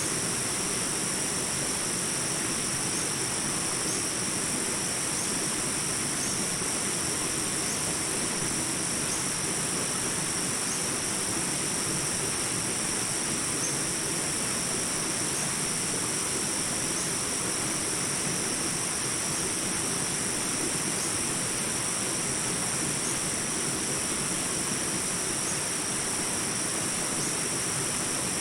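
Small jungle rapids: water rushing steadily over rocks, with a constant high-pitched drone of insects above it and a few faint chirps.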